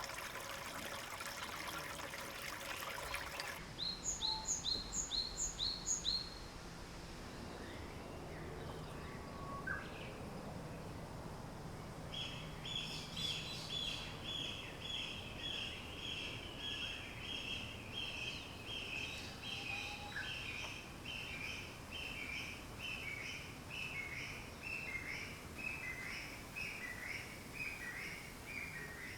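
Birds calling outdoors: a quick run of about six sharp, falling high notes, then a long, regular series of repeated high chirps, about two a second. A rushing noise fills the first few seconds and stops abruptly.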